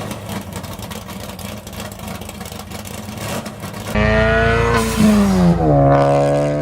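Ford Focus ST's turbocharged 2.0-litre four-cylinder engine and exhaust running. About two-thirds of the way in the engine note jumps much louder, its pitch dipping and then holding steady.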